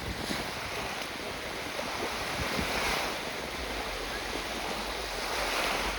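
Small lake waves washing onto a beach, swelling about three seconds in and again near the end, with wind rumbling on the microphone.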